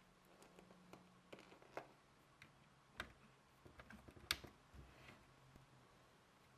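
Faint, irregular clicks and clacks of Lego plastic parts being handled, with sharper snaps about three seconds in and just after four seconds.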